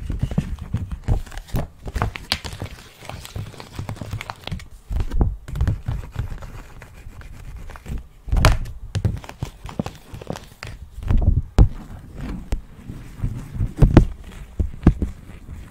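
Close-miked ASMR tapping and handling of objects: irregular soft thuds and knocks with some crinkling between them.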